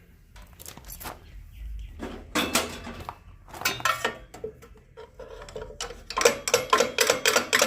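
Metal hand tools and engine parts clinking and clattering in irregular knocks, getting busier and louder near the end.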